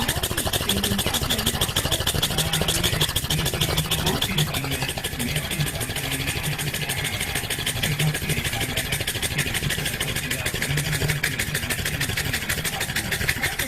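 Pug panting very hard in a fast, even, rattling rhythm that sounds like an idling diesel engine. The breathing is laboured enough that the owner worries about stress on the dog's heart.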